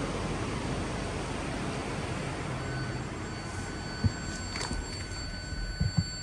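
Range Rover's 4.4-litre V8 engine running steadily, with a few dull thumps about four seconds in and near the end.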